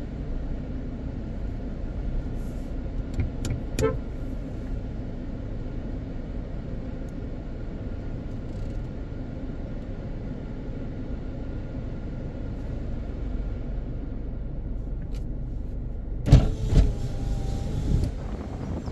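Steady road and engine noise inside a moving car. About sixteen seconds in there is a short burst of loud knocks and rattles.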